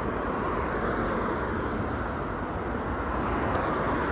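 Steady outdoor rushing noise with no distinct events, the kind of a vehicle or aircraft sound.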